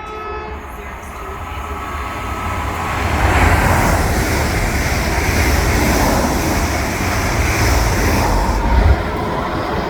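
A train passing, its rumble and rail noise building over the first three seconds, staying loud, then dropping off sharply near the end.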